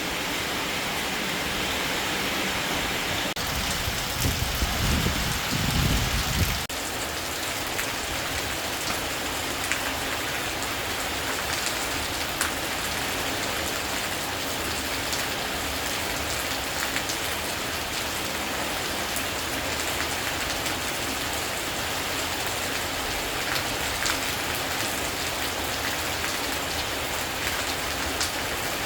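Steady rain falling on a surface, with scattered drop ticks. A low rumble runs under it for the first six or so seconds and stops abruptly.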